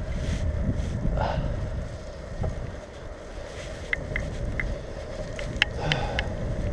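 Steady low rumble of wind and road noise on a bicycle-mounted microphone while riding through traffic, with a scatter of short light ticks about four to six seconds in.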